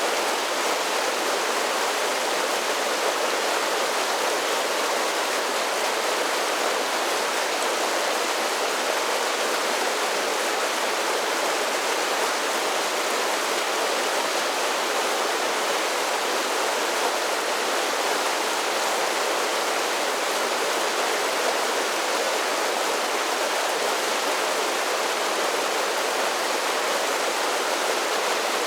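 A series of small waterfalls on a mountain creek: water tumbling over rocks in a steady, even rush, mostly hiss and splash with little deep rumble.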